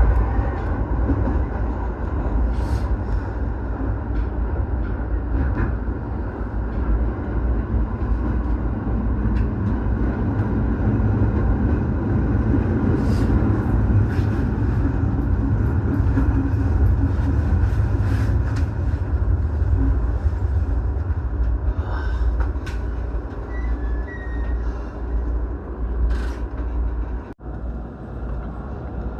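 Electric commuter train running between stations, heard from inside the passenger car: a steady low rumble with scattered sharp clicks.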